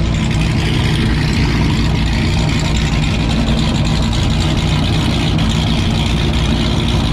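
A vehicle engine idling steadily, its even low hum unchanged throughout.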